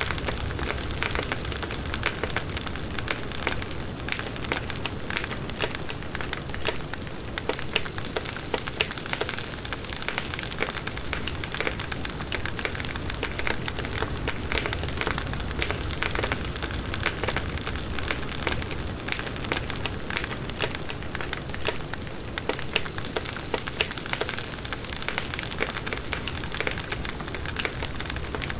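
Wood campfire burning, a steady hiss with dense, irregular small crackles and pops.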